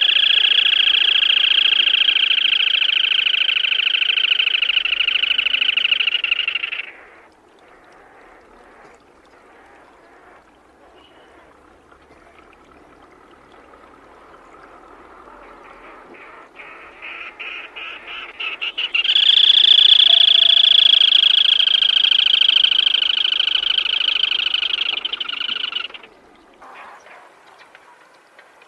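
Black-tailed crake calling in two long, rapid rattling trills. The first runs for about seven seconds and cuts off. After a pause, stuttering notes build into a second trill of about seven seconds that drops slightly in pitch and stops abruptly.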